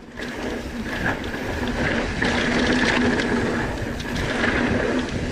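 Mountain bike rolling fast down a dirt jump trail: tyre rumble on dirt with frequent small rattles and clicks from the bike, under a steady buzz.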